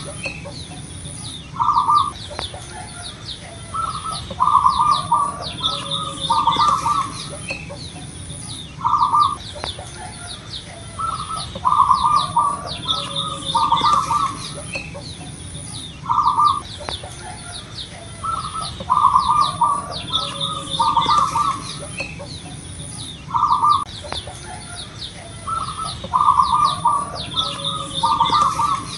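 Zebra dove (perkutut) cooing with a loud voice: phrases of a few short, low coo notes repeated every two to three seconds, over the high chirping of smaller birds.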